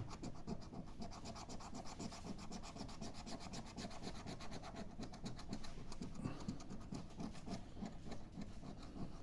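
A Mission Nature scratch card being scratched off: a fast, faint run of small scraping strokes over the card's coating.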